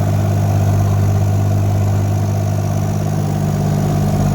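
LTMG 2-ton mini excavator's engine idling steadily while parked, a constant low hum with no change in speed.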